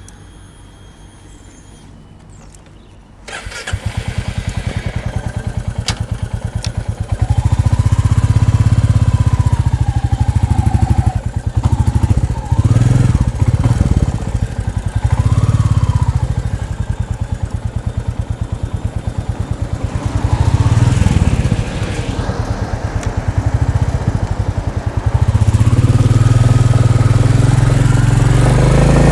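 Royal Enfield Bullet 350's single-cylinder engine running. It is faint at first, comes up sharply about three seconds in, and then runs loud with the revs rising and falling.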